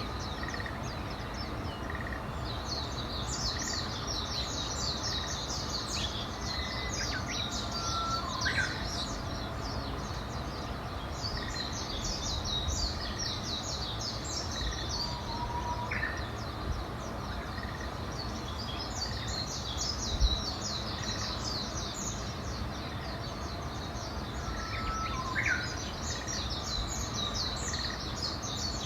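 Wild birds singing: one bird gives long, rapid, high-pitched songs of several seconds each, about every eight seconds, with a few short, lower whistles from others, over a steady outdoor background hiss.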